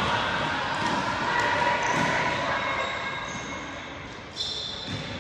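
Basketball bouncing on a gym court during play, with echo from the large hall.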